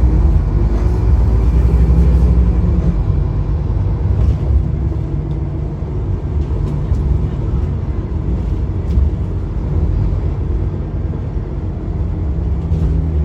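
Scania N230UD double-decker bus's diesel engine running with a steady low rumble; the engine note drops about three seconds in.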